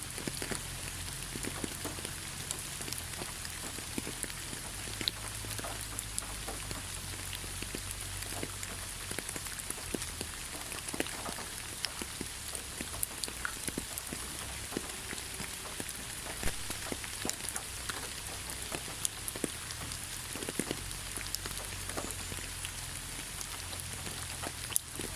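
Steady rain falling in a rainforest, with many separate drops striking close by.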